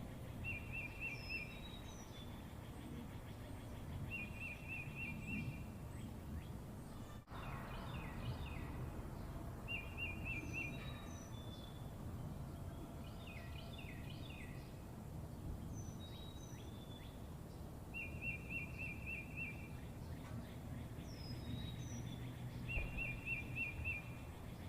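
Songbirds singing over a steady low background hum. One bird repeats a short, fast trill every few seconds, answered by high falling whistles and bursts of chirping from others.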